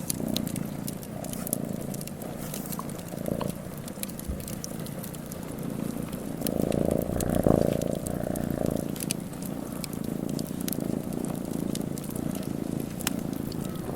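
A cat purring in rhythmic swells of about a second each, louder from about six to nine seconds in, with the scattered crackle and pops of a wood fire.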